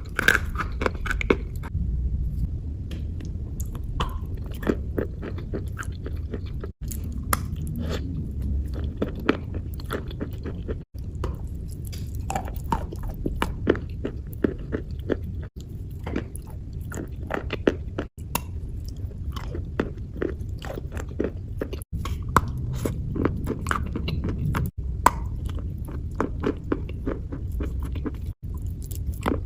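Close-miked ASMR wet crunching, a crunchy material worked with paste, giving dense sharp crackles and crunches like chewing. There are brief drops to silence every few seconds where short clips are joined.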